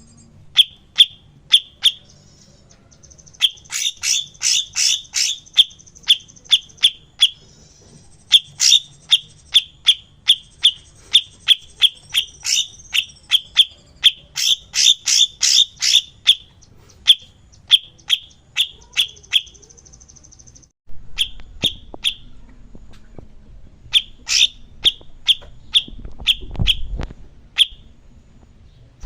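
A songbird repeating sharp, loud chip notes in quick runs of about three a second, with short pauses between runs and a few brief buzzy trills; it is a master-song recording used to train cage songbirds.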